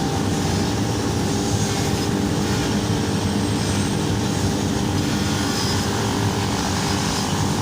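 A motor running steadily with a low rumbling hum that holds an even level throughout.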